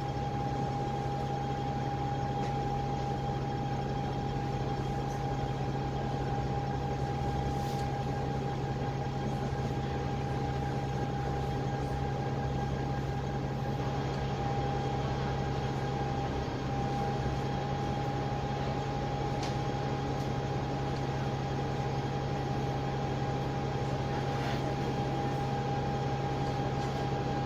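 Dennis Trident 12 m double-decker bus running steadily, heard from the lower deck: the Cummins ISMe diesel engine and drivetrain give a constant low hum, with a steady high whine over it and road noise underneath.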